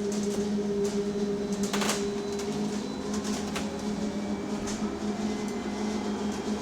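Inside an electric single-deck bus, a steady hum holding one low pitch with a fainter tone above it, over light rattles and a brief rustle about two seconds in. It is the odd noise a rider takes for a fault, worried the bus might blow up.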